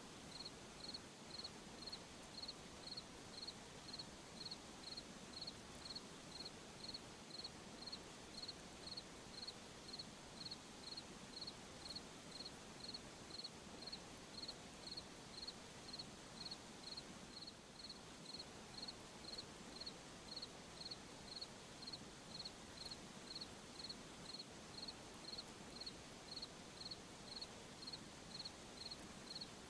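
A cricket chirping at night: short high-pitched chirps repeating evenly, just under two a second, over a faint steady hiss.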